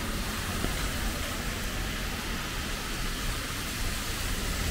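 Heavy rain falling, a steady even hiss, with a low rumble underneath.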